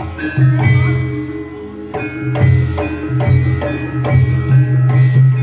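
Live Javanese traditional ensemble music accompanying a reog and kuda lumping dance. Drum strokes beat over sustained, ringing metal percussion (gongs and metallophones).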